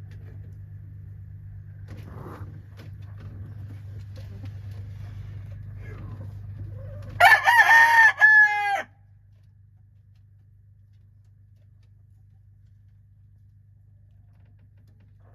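A game rooster crowing once, about seven seconds in: a single loud cock-a-doodle-doo lasting about a second and a half. Before it a steady low hum and a few faint rustles, and the hum drops away right after the crow.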